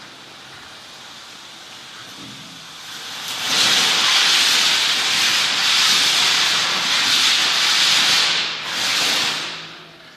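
Cebollita firecrackers burning in a small bonfire: a fizzing hiss of spraying sparks that swells loud about three seconds in, holds, dips once and fades out near the end, without bangs.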